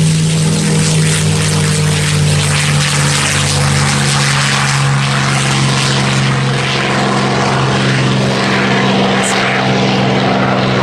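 Aircraft engines running, loud and steady: a low drone with a wide hiss over it.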